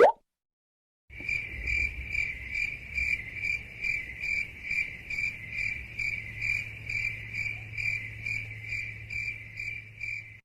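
Crickets chirping: the meme sound effect for an awkward silence, a steady high trill pulsing two or three times a second over a low hum. It is preceded by a brief rising blip.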